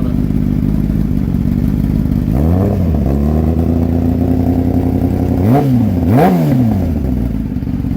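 Kawasaki ZX10R inline-four sport bike running through an M4 exhaust with the baffle removed: idling, then blipped once about two and a half seconds in and twice more in quick succession near the middle, each rev rising and falling straight back to idle. It is loud.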